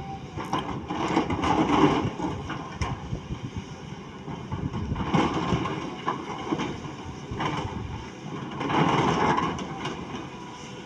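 Caterpillar excavator working: the machine's noise swells and falls back about every four seconds, with scattered metallic knocks.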